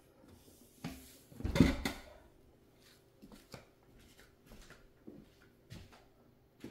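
Small hard parts being handled on a work surface: scattered light clicks and knocks, with one louder clatter lasting about half a second, about one and a half seconds in.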